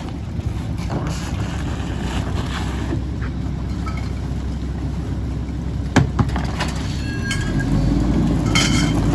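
Mack LE garbage truck's diesel engine running steadily, with a sharp knock about six seconds in. About seven seconds in the engine speeds up and gets louder, as it does when the packer is compacting trash, with a few short high squeaks.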